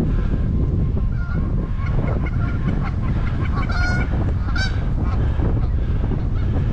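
Geese honking: a scatter of faint calls, with two louder honks about four seconds in. Steady wind buffeting on the microphone runs beneath them.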